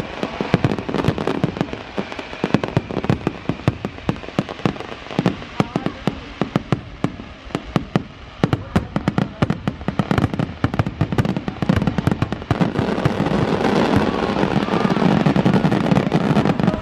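Fireworks display: many bangs and crackles in quick succession. Over the last few seconds they build into a denser, near-continuous barrage.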